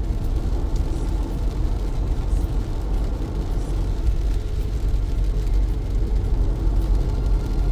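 Car driving on wet roads in heavy rain: a steady, deep rumble of road and tyre noise with a fainter hiss of rain over it.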